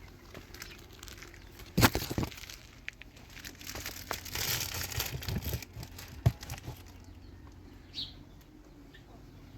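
Crinkling and rustling from something being handled, with a quick cluster of sharp knocks about two seconds in and another single sharp knock a little past the middle. A short bird chirp near the end.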